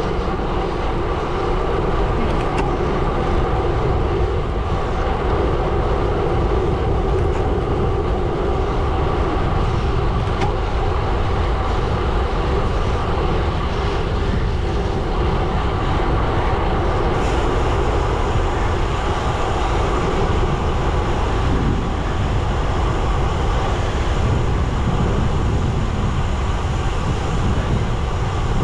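Gravel bike tyres rolling over a gravel road: a steady rumbling noise with no letup.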